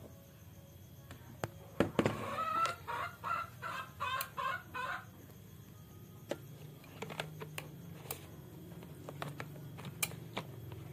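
A quick run of about seven short, pitched animal calls over some three seconds, followed by scattered light clicks and knocks.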